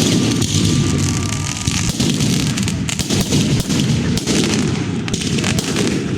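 Fireworks going off in a dense, continuous barrage: many bangs and crackles overlapping without a break.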